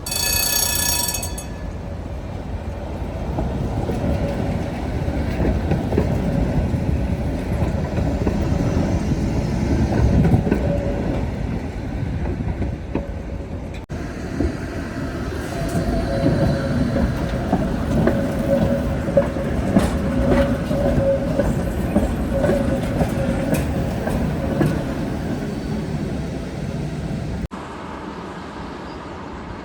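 Tatra ČKD trams running on street track: a steady rumble of wheels on rail with a humming tone from the running gear. A brief high ringing tone sounds right at the start, and the sound changes abruptly twice.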